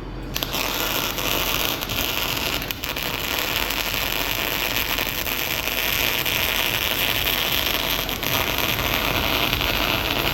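Electric arc welding on steel plate: one continuous bead of about ten seconds, the arc giving a steady sizzling crackle with a brief break near the start, cut off sharply when the arc is stopped.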